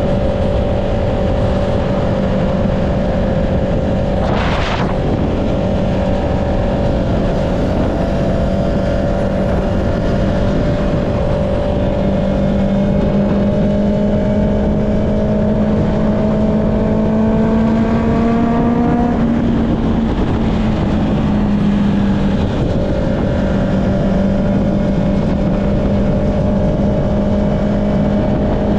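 Honda CB650R's inline-four engine running through an Akrapovic exhaust at a steady cruise, its pitch climbing slowly as it gains speed, then dropping around two-thirds of the way through before holding steady again. A steady rush of wind noise lies under it, and there is one brief sharp sound about four seconds in.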